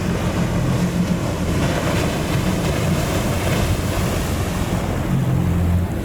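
Wind buffeting the microphone over the steady wash of breaking surf, a continuous loud rush with a rough low rumble.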